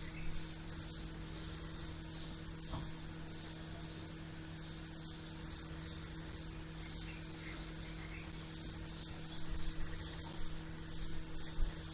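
Small birds chirping in a steady run of short, high chirps, about two a second, over a steady low hum. A few louder low bumps come near the end.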